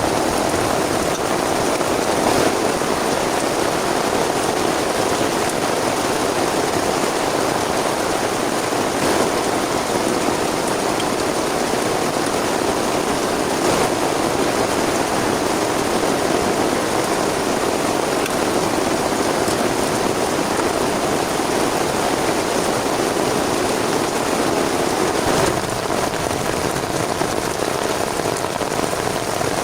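Heavy rain falling steadily, a dense even hiss flecked with faint drop ticks. It eases slightly near the end.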